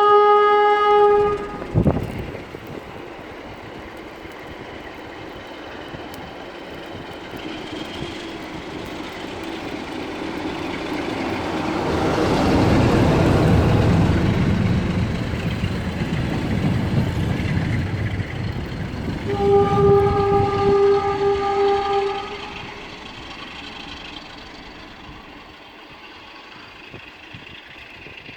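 CFR class 60 diesel-electric locomotive sounding a short single-tone horn blast, with a sharp knock just after. Its engine then builds up over several seconds as the train draws near, the horn is blown again for about two seconds, and the rumble fades away.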